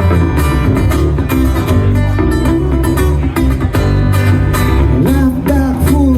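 Live band music: an acoustic guitar strummed to a steady beat over a low bass line, an instrumental passage between sung verses.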